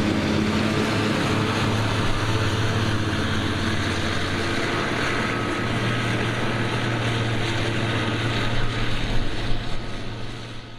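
Claas Jaguar 870 self-propelled forage harvester running under load, a steady engine drone mixed with the noise of the machine working. Near the end the sound wavers and drops slightly.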